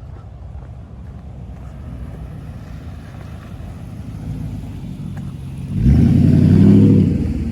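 A car driving past close by: a low engine rumble builds, then grows loud about six seconds in and starts to fade near the end.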